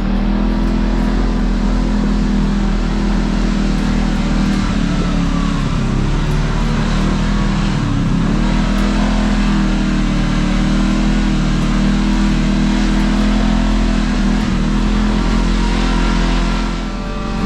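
Kawasaki KRX side-by-side's parallel-twin engine running at a steady pace under way on a trail, its pitch dipping briefly twice, about six and eight seconds in, as the throttle eases and comes back.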